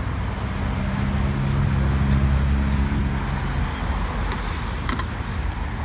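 A car engine running at low, steady revs as the car goes by, growing louder to about two or three seconds in and then fading away.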